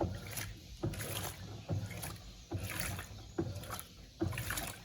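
Electrolux Turbo Compacta LTC07 top-loading washer agitating a load of towels, water sloshing in regular surges about once every 0.8 seconds as the agitator swings back and forth.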